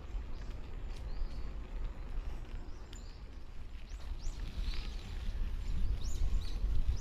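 Wind rumbling on the microphone of a moving bicycle, with a few light clicks. From about four seconds in, birds give short, high, repeated chirps.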